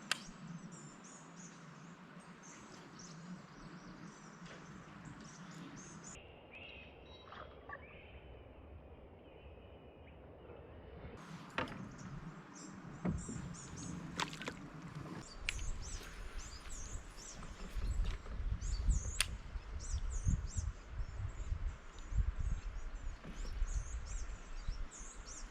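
Small birds chirping over outdoor creek ambience, with a few sharp clicks and, from about halfway through, uneven low rumbling bumps.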